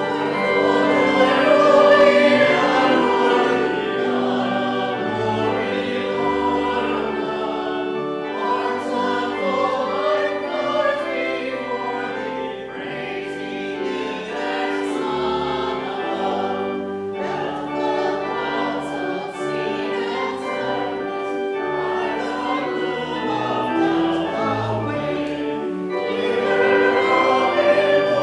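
Music with a choir singing, full and sustained; it starts suddenly.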